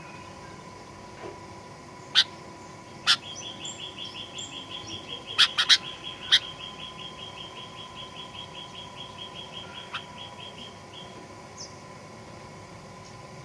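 Sooty-headed bulbul (kutilang) calling. A few sharp, very short notes stand out, some in quick pairs, over a long even trill of about five notes a second that starts about three seconds in and stops near eleven seconds.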